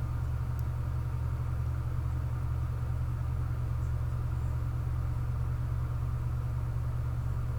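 Steady low hum, even and unchanging, with nothing else happening.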